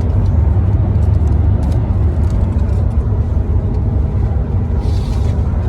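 Steady low road rumble inside a pickup truck's cab while driving.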